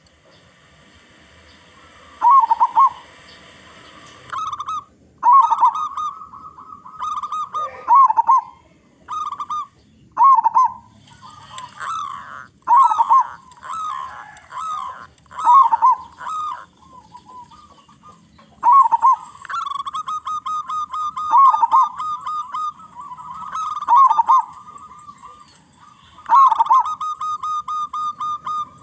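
Zebra doves (perkutut) cooing: repeated phrases of quick stuttering coo notes, with long runs of rapid, even notes in the second half, and calls overlapping at times.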